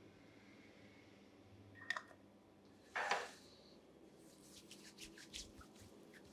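Quiet barber's work at the chair: two light clicks, a short spray hiss about three seconds in, then a run of quick light clicks or snips.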